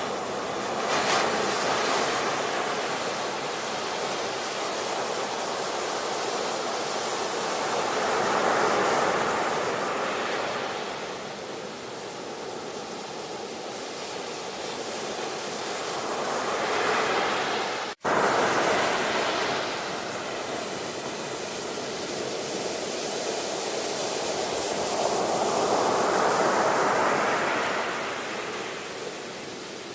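Ocean surf: waves washing in and receding, swelling in roughly eight-second surges. The sound cuts out for an instant about halfway through.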